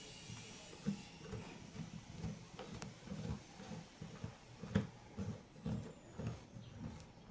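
Irregular handling noises from work on a broken wooden door jamb: soft low knocks and taps several times a second, with a few sharper clicks.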